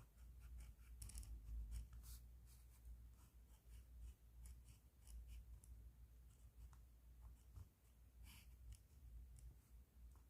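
Pen tip scratching across paper in short, irregular strokes, faint, over a low steady hum.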